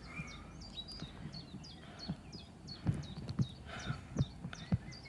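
Small birds chirping steadily with many short high notes, with a few dull low thumps in the second half.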